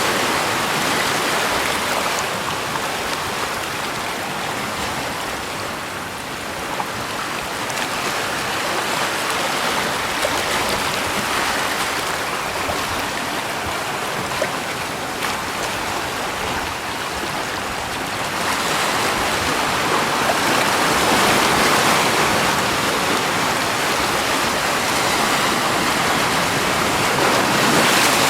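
Rushing water, a steady even rush that grows louder about two-thirds of the way through.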